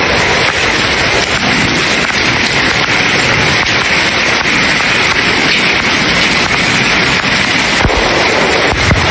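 Hail and heavy rain pelting down, a dense, steady clatter of countless small impacts, with a couple of low thumps near the end.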